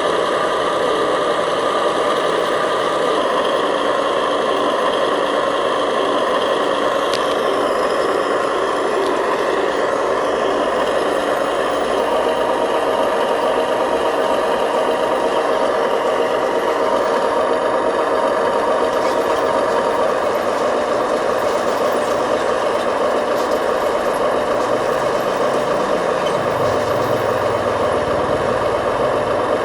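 Scale remote-control construction machines (a bulldozer and dump trucks) working: a steady, continuous run of motor and gear noise with no pauses.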